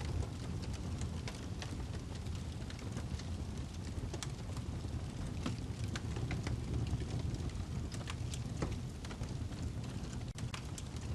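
Wood fire burning in a fireplace: a steady low rumble of flame with frequent sharp, irregular crackles and pops from the burning log.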